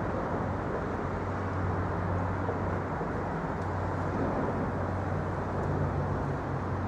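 Steady outdoor traffic noise: an even rumble with a constant low hum, without distinct passing events.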